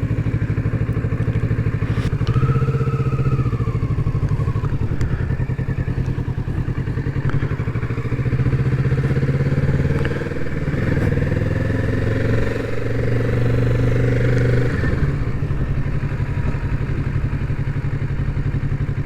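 Kawasaki Z650's parallel-twin engine running as the motorcycle rides off at low speed. The engine note rises and falls with the throttle and drops about ten seconds and again about fifteen seconds in.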